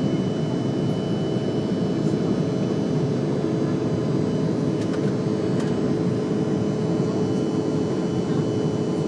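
Steady airliner cabin noise in flight: a dense, even engine and airflow drone with a few steady tones running through it.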